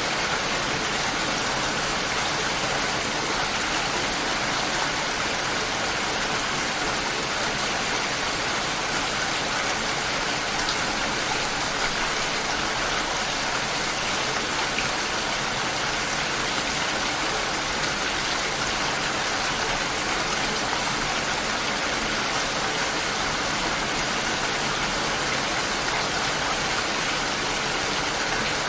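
Steady light rain falling, an even hiss with no thunder and no change in strength.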